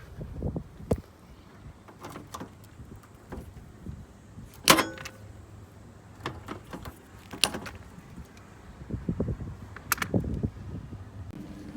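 Scattered knocks and metal clanks from handling the parts and tools of an air-conditioner outdoor unit, with one sharp, ringing clank about five seconds in.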